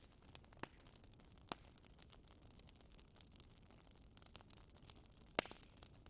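Wood fire crackling: a few scattered sharp pops and snaps at irregular intervals over a faint hiss, the loudest pop about five seconds in.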